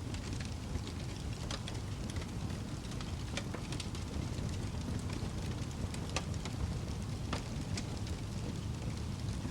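Fireplace fire burning with a steady low rumble and hiss, and scattered sharp crackles and pops from the burning wood.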